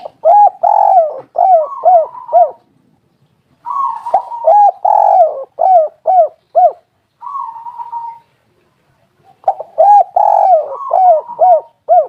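Spotted dove (tekukur) cooing: three bouts, each a quick run of short, arching coos with a held higher note, and one lone drawn-out coo between the second and third bout.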